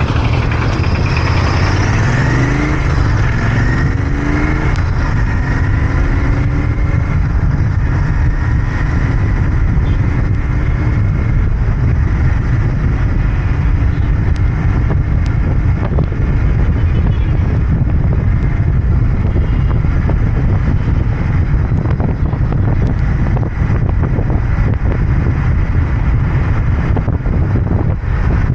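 Royal Enfield Interceptor 650's 648 cc parallel-twin engine and exhaust running steadily while riding, heard from the rider's position. Between about two and five seconds in, the pitch rises in a few short sweeps.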